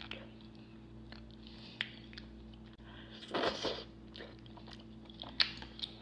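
A person eating ramen close to the microphone: soft mouth clicks and chewing, with a louder, noisier half-second of eating about three and a half seconds in and a sharp click near the end.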